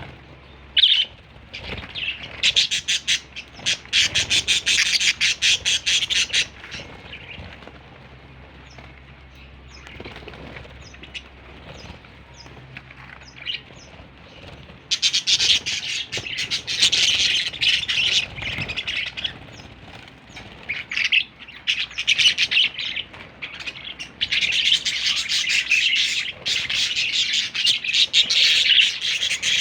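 Budgerigar chirping and chattering in long, fast runs of high notes, with a quieter stretch of scattered chirps in between.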